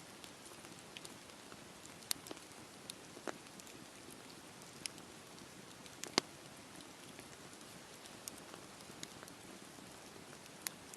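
Campfire burning: a steady soft hiss and flutter of flames with scattered sharp crackles and pops of the wood, the loudest pops about two seconds in and about six seconds in.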